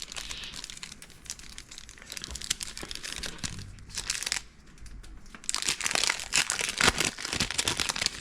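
Crinkling and crackling of a plastic trading-card pack wrapper being handled, in waves that are loudest near the end.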